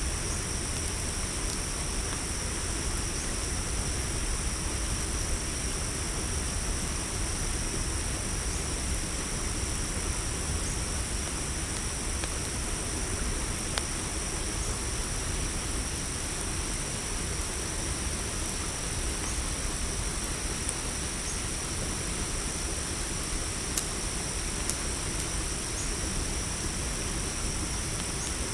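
Steady high chirring of a cricket chorus over a low, even rumble, with a few sharp pops from a crackling campfire.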